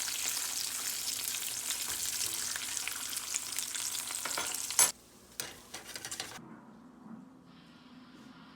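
Food frying in a pan: a steady sizzle with small crackles that cuts off suddenly about five seconds in, followed by a few light knocks.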